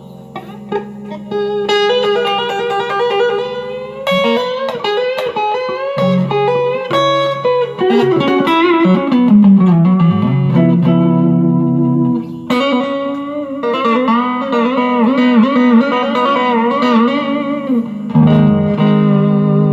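M-Musi Virgo Fusion electric guitar played through an amp, picked notes and chords worked with its floating tremolo arm. The pitch dips down and back up about halfway through, and the later notes waver in a steady vibrato.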